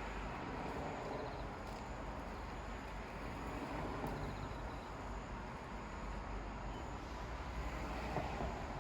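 Steady outdoor night background: a low, even rumble and hiss like far-off traffic, with faint insect chirps now and then. No thunder is heard.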